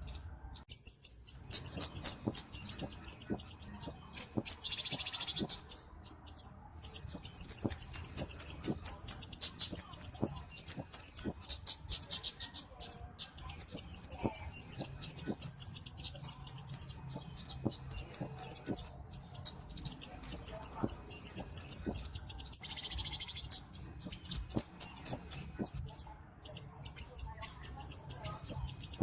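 Cabe-cabean (flowerpecker) calling: fast runs of thin, very high-pitched chips, several notes a second. The runs last a few seconds each, with short breaks between them.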